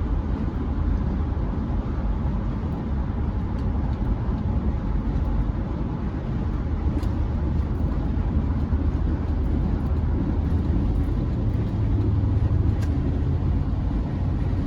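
Steady in-cab road and engine rumble from a Chevrolet C10 pickup driving along, deep and even, swelling slightly near the end.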